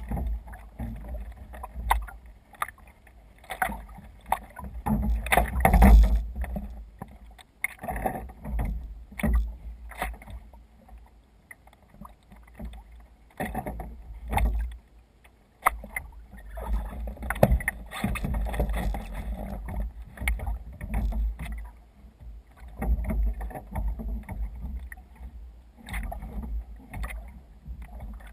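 Water splashing and slapping against a kayak's hull as it moves through waves, in irregular bursts every second or two over a low rumble.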